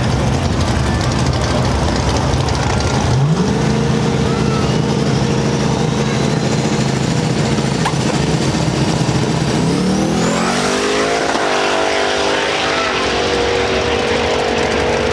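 Race car engines at a drag strip. About three seconds in, an engine revs up and holds a steady high pitch for several seconds. Near ten seconds in, the revs climb again in steps.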